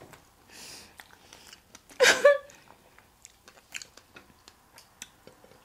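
Close-miked chewing and biting of fresh strawberries and strawberry shortcake, with many small mouth clicks and smacks. A short, loud vocal exclamation comes about two seconds in.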